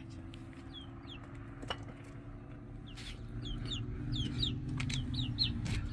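Chicks peeping in many short, falling high chirps, over a low steady hum that grows louder about halfway through.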